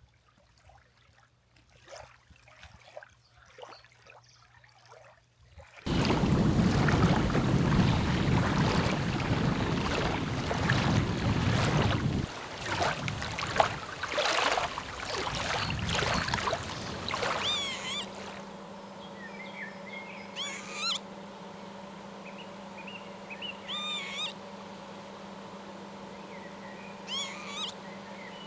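A quiet start, then a loud rush of even noise lasting about ten seconds. After that comes a steady low engine-like hum, with a bird's short, sharp, gliding calls coming every two to four seconds.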